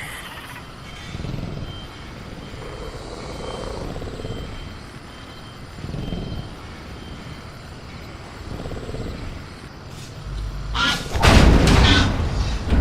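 Sound-designed caged-dinosaur ambience: low rumbling growls swell every couple of seconds. About ten seconds in comes a loud, harsh crashing burst, which continues past the end.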